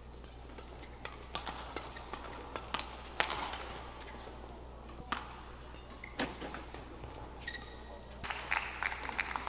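Badminton rally in an indoor hall: sharp shuttlecock strikes off racket strings about three, five and six seconds in, a brief shoe squeak on the court near the eighth second, then a dense clatter of crowd clapping near the end.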